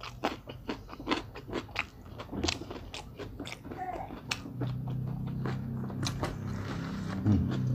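A person chewing a mouthful of rice, pressure-cooked milkfish and raw jengkol close to the microphone, with many short wet clicks and smacks.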